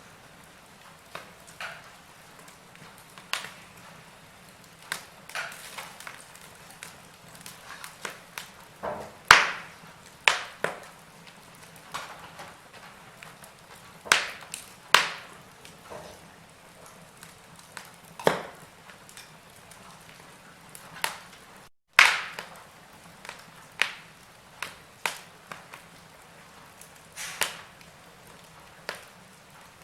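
Wood fire in a fireplace crackling, with irregular sharp pops and snaps over a faint steady hiss; the loudest pops come about nine, fourteen and twenty-two seconds in. The sound cuts out for a split second just before the pop at twenty-two seconds.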